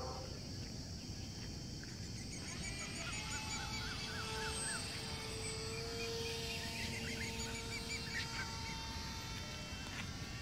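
Birds calling in runs of short, hooked chirping notes, faint against a low rumbling background. A faint steady hum sounds for a few seconds in the middle.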